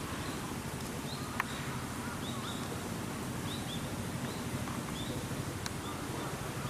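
A small bird's short high chirps, repeated every second or so and often in pairs, over a steady low background rumble, with a sharp click about a second and a half in.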